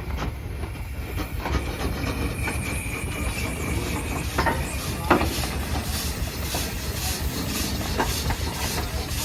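1912 Case 60 HP steam traction engine running, with steady steam hiss, a low rumble and a rhythmic mechanical beat, plus a few sharp knocks.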